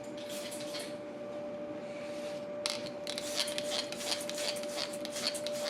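Short hissing squirts from a hand spray bottle misting water over the scored sourdough loaf, then from about two and a half seconds in a faster, denser run of scratchy strokes, over a steady thin hum.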